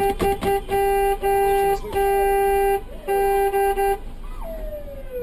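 A vehicle horn honking: a quick string of short toots, then several longer blasts on one steady pitch. Near the end, while the horn pauses, a tone slides up and down in pitch.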